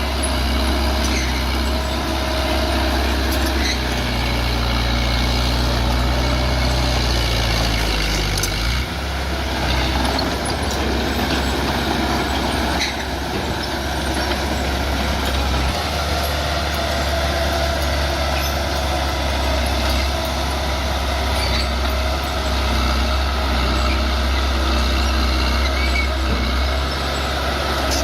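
Bulldozer's diesel engine running steadily while it pushes earth, its note shifting about 9 seconds in and again near 16 seconds.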